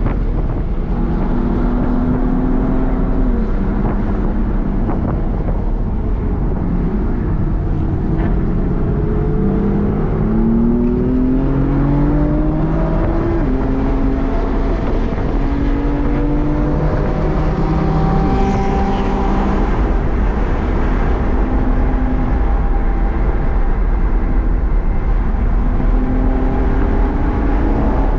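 BMW M4 Competition's twin-turbo inline-six heard from inside the cabin at track speed, its pitch climbing and then dropping back in steps as it runs up and down the gears. Wind and tyre noise run steadily underneath.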